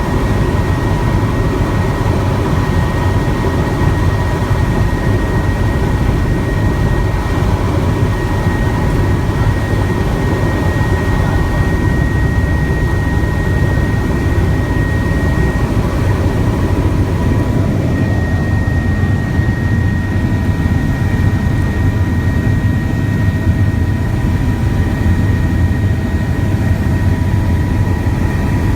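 Helicopter in flight: a loud, steady drone of rotor and turbine, with a constant high whine on top.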